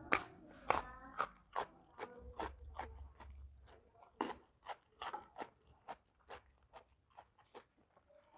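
Close-miked crunching and chewing of raw jengkol beans: one loud crunch at the first bite, then a run of sharp crunches about two or three a second that gradually get fainter.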